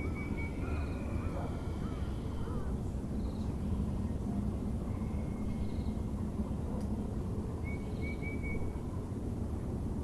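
Several birds calling over a steady low background rumble: a short high note repeats about every two and a half seconds, and a quick stuttering series of notes comes at the start and again about eight seconds in. A Müller's (Taiwan) barbet is among the birds.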